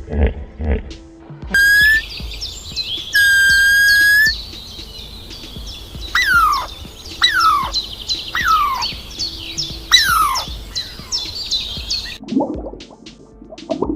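Birds calling. It starts with two long, steady, loud whistled notes. Then comes a string of falling calls, roughly one a second, over a busy high-pitched chatter of many birds, which stops about twelve seconds in.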